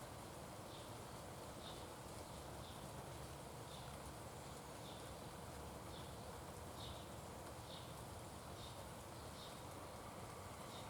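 A small animal calling a short, high chip note over and over, about once a second, over a faint steady hiss.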